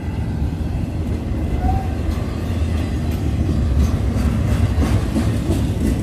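Double-stack intermodal freight train of container well cars rolling past: a steady low rumble of steel wheels on rail, with a run of clanks and rattles about four to five seconds in.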